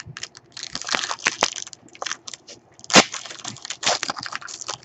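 Trading card packs and cards being handled: crinkly rustling of foil wrappers and cards being slid and sorted, with a sharp snap about three seconds in.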